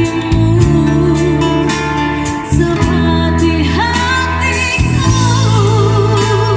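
Female vocalist singing a slow pop ballad with a live band: sustained bass guitar notes, guitar and steady drum strikes, the voice holding long notes with vibrato near the end.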